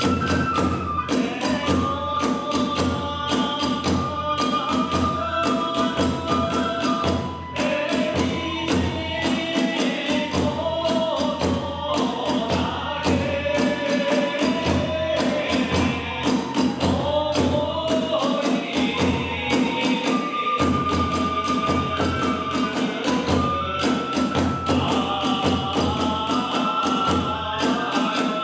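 Kagura hayashi music: a bamboo flute playing a melody over a fast, steady beat of drums and small hand cymbals.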